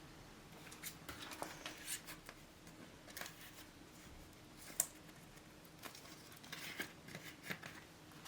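Faint, scattered light clicks and rustles of plastic cash wallets and a binder being handled.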